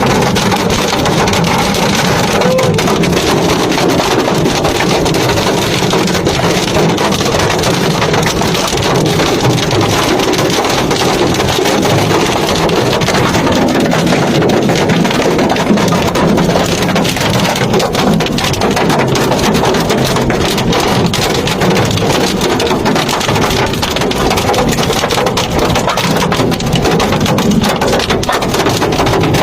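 Heavy hail and rain pelting down in a dense, steady clatter of countless small impacts on hard surfaces.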